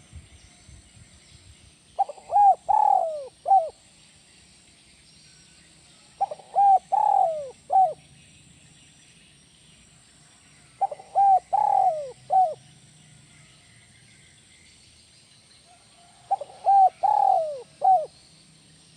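Spotted dove (tekukur) cooing: four phrases about four to five seconds apart, each a quick run of several coo notes ending on one separate final note, the 'kuk 1' song style.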